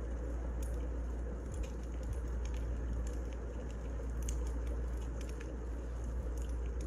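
Wood fire burning: a steady low rumble with small, irregular crackles and pops scattered throughout.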